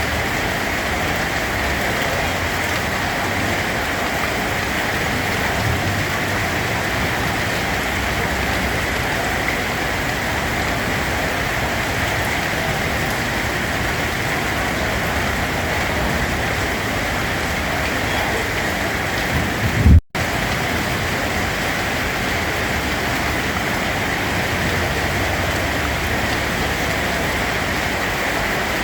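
Steady rain falling on a surface, a dense even hiss. About two-thirds of the way through, a brief low thump is followed by a split-second cut where the sound drops out, then the rain carries on.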